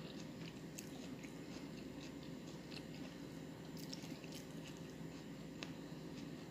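A person chewing food, with small wet mouth clicks scattered throughout, over a steady low hum.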